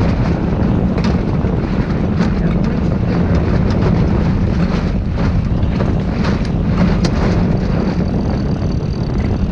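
Wind rushing over the microphone aboard a sailboat under way in about 15 knots of wind, a loud steady rush, with a few short clicks and knocks scattered through it.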